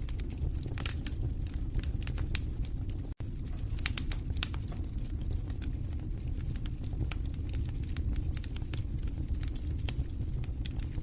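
Wood fire in a fireplace crackling: irregular sharp pops and snaps, a few stronger ones about four seconds in, over a steady low rumble. The sound cuts out for an instant just after three seconds.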